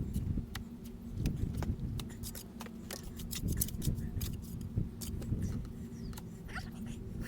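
Many quick clicks, taps and knocks from hand work with tools and stone, over a steady low hum.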